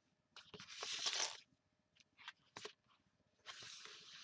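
Paper and cardstock rustling and sliding as journal pages are fitted into place, in two bursts, with a few light taps on the desk between them.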